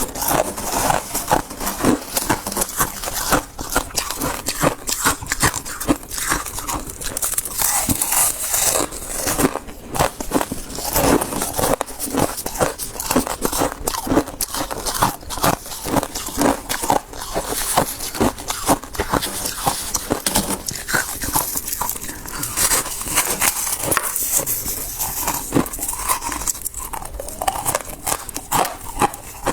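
Close-up crunching and chewing of soft, fluffy freezer frost, a dense run of crisp crackling bites one after another.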